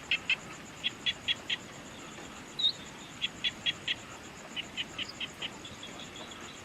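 A bird calling in quick runs of about four short, sharp notes, with one short rising chirp a little before the middle, over a faint steady high insect trill.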